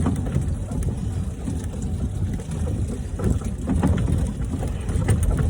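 A velomobile's knobby bicycle tyres and body ploughing through heavy, wet snow: a steady low rumble with irregular crunching knocks.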